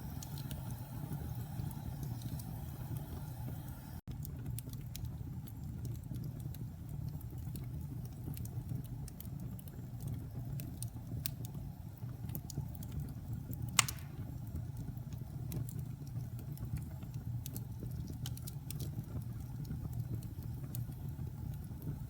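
Wood fire burning in a fireplace: a steady low rumble of flames with scattered small crackles and one louder pop about fourteen seconds in. The sound breaks off for an instant about four seconds in.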